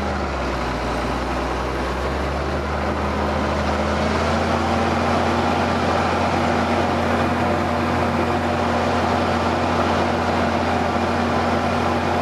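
Ford TW tractor's diesel engine running steadily under load while pulling a plough; its note rises slightly a couple of seconds in, then holds.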